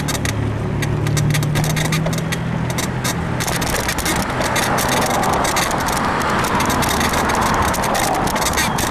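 Full-suspension bicycle ridden over rough sidewalk, its frame giving a rapid run of clicks and creaks that the rider puts down to a worn suspension bushing, over steady wind and road noise. A motor vehicle's low hum runs through the first three seconds.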